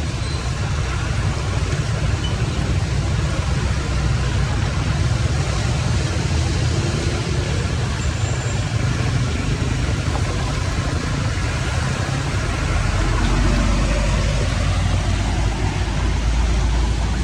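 Water rushing steadily into a cleared storm drain or culvert, a loud continuous rush with a low rumble that grows heavier about two thirds of the way through.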